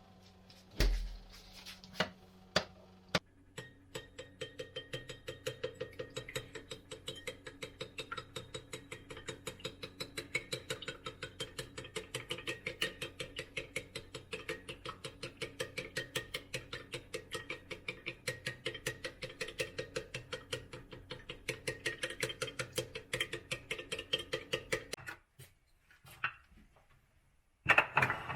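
A few separate knocks, then rapid, even tapping at about four to five strokes a second for some twenty seconds, typical of kitchen food prep such as chopping or whisking, over a steady hum. The tapping stops suddenly near the end.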